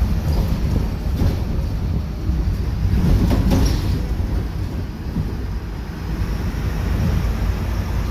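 Cabin noise inside a Marcopolo Torino G7 city bus under way: steady low engine and road rumble, with brief rattles of the bodywork about a second in and again around three seconds in.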